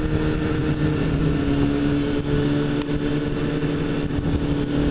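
Kawasaki ZX-6R inline-four sport bike engine running at a steady, unchanging pitch while cruising, with wind rush over the microphone. There is one brief click a little past halfway.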